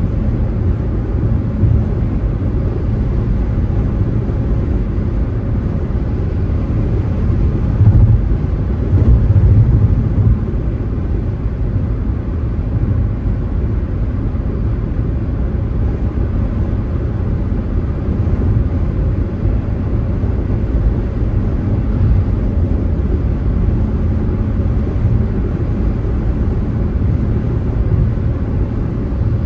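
Car being driven, with a steady low rumble of road and engine noise. It grows louder for a couple of seconds about eight seconds in.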